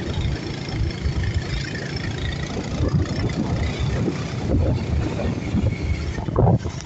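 Motorcycle engine running low and steady, mixed with wind rumbling on the phone's microphone.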